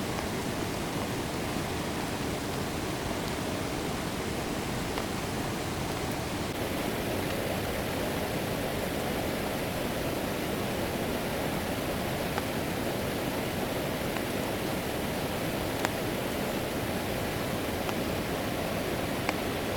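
Steady rush of flowing water, with a few sharp clicks in the second half.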